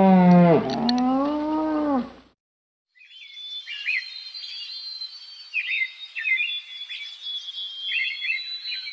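A moose giving one long call of about two seconds that dips and then rises in pitch. After a short silence, small birds chirp and trill in quick bursts.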